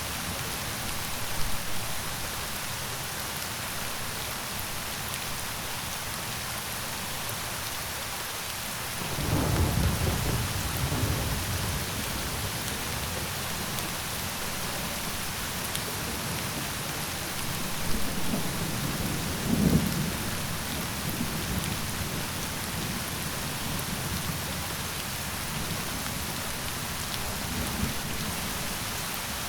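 Steady rain falling, with thunder rumbling low about a third of the way through and again about two-thirds through.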